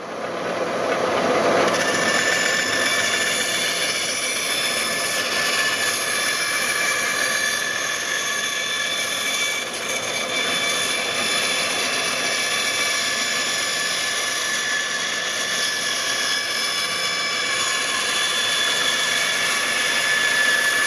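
A woodworking power tool starts up and runs steadily, with a constant whine made of several fixed tones.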